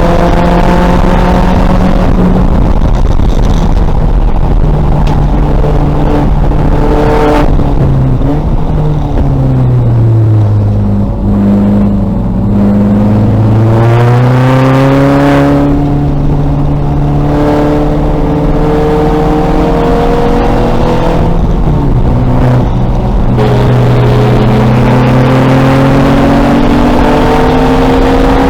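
2000 VW Golf race car's engine at full throttle on track, revving up and stepping down through upshifts. About eight seconds in the revs fall through braking and downshifts for a corner. It then pulls hard up through the gears again, with shifts near the end.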